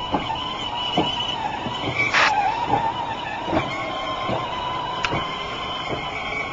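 Peg Perego Santa Fe electric ride-on toy train running under a rider's weight: its 6-volt drive motor and gearbox whine steadily, with irregular clicks and knocks as it rolls along, and a brief hiss about two seconds in.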